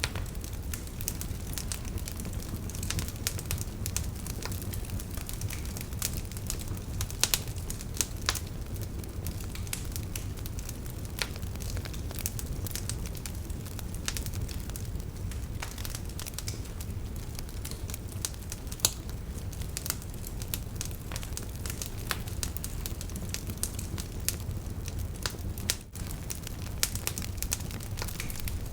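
Wood fire in a fireplace crackling, with frequent sharp pops and snaps over a steady low rumble of the flames. The sound drops out for an instant near the end.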